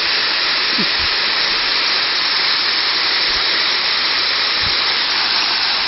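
Water from a small waterfall rushing down close by: a steady, unbroken hiss.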